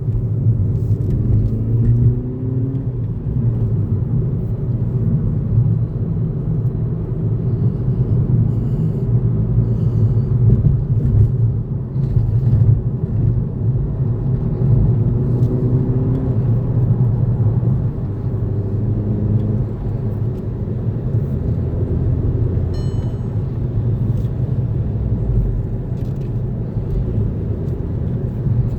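A 2012 Volkswagen GTI's 2.0-litre turbocharged engine running under way, with a steady low road and engine rumble. The engine note rises about a second in and again about fifteen seconds in.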